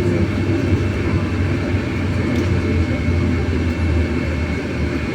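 MAZ-303E10 electric bus under way, heard from inside the cabin: a steady low rumble of road and running gear with a faint steady high whine.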